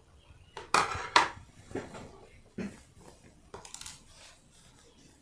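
Irregular light clicks and scrapes of metal scissors being worked to push polyester fiber stuffing into a sewn felt piece.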